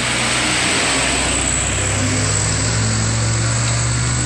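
Loaded truck's diesel engine labouring, a loud low drone that grows stronger about two and a half seconds in, with tyre and road hiss.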